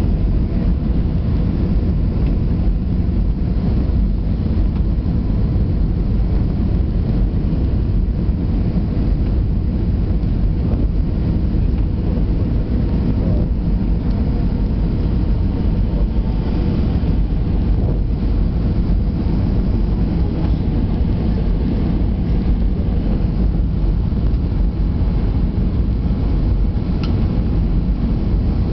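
Steady low rumble inside the cabin of an Airbus A320-200 airliner: engines and airflow running evenly, with a faint steady hum on top and a brief tick near the end.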